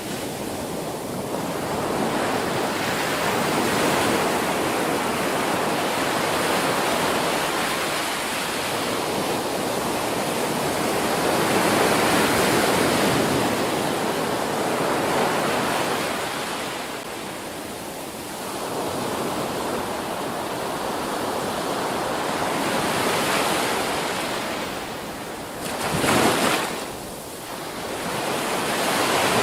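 Ocean waves breaking on a beach: a steady rush of surf that swells and ebbs as each wave comes in, with a brief louder surge near the end.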